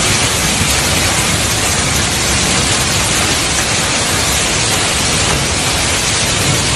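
Heavy rain and hail pouring down as a dense, steady hiss.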